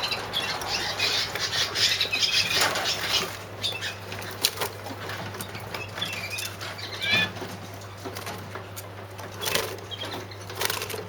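Young yellow mosaic canaries fluttering and hopping about in small show cages, with a few short chirps now and then, over a steady low hum.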